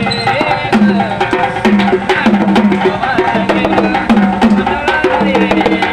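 Gondhal, a Marathi folk devotional song to the goddess: a singing voice over a quick repeating drum rhythm with sharp clicking percussion.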